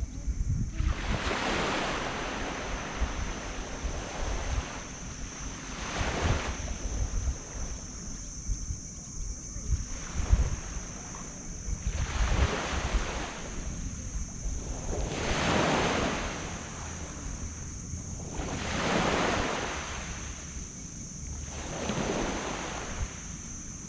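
Small sea waves breaking and washing up on a sand beach, a surge swelling and fading every three to four seconds. Wind rumbles on the microphone underneath.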